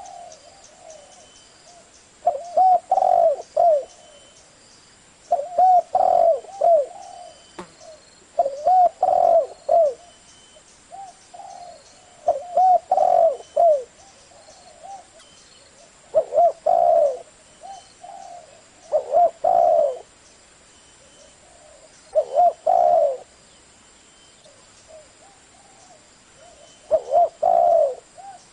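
Spotted dove cooing: short phrases of low, looping coo notes, repeated about every three to four seconds. This is a 'giọng thổ' call used as a lure to draw wild doves into answering.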